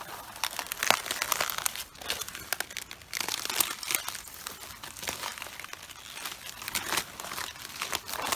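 Footsteps crushing whole cabbages, the leaves crunching, cracking and tearing underfoot in irregular bursts.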